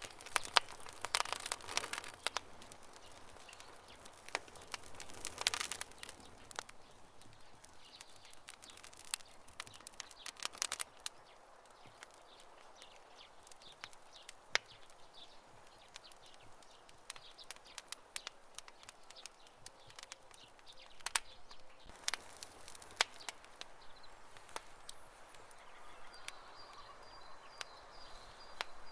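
Wood campfire crackling, with sharp pops and snaps coming in several bunches over a faint steady hiss.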